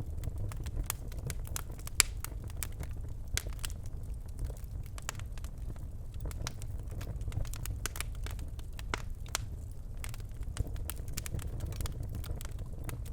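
Birchwood fire burning in a fireplace: scattered crackles and snaps over a steady low rumble of the flames, with one sharp pop about two seconds in.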